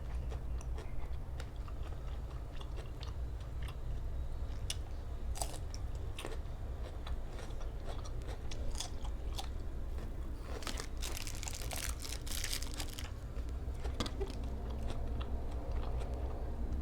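A person chewing and biting food close to the microphone: a meal of spicy grilled-pork salad with sticky rice and raw vegetables. Scattered crisp crunches throughout, with a denser run of crunching about eleven to thirteen seconds in, over a steady low hum.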